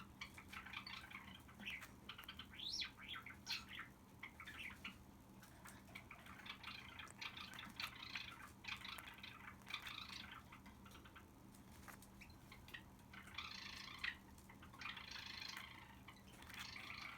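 Faint, soft chattering from a drowsy pet cockatiel, in short bouts of a second or two with pauses between them.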